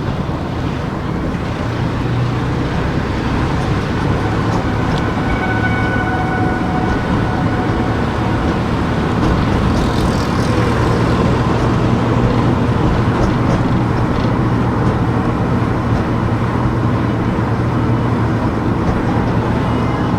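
A car driving on town streets: steady engine and tyre road noise.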